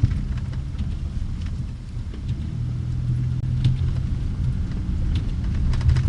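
Low, steady rumble of a motor vehicle running, with scattered faint ticks.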